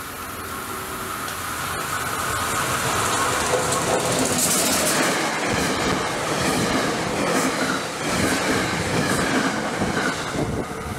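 SEPTA Regional Rail express train, an AEM-7 electric locomotive with Bombardier Comet coaches, approaching and running past without stopping. The sound builds over the first few seconds into a loud rush of wheels on rail with scattered clicks, and stays loud as the coaches go by.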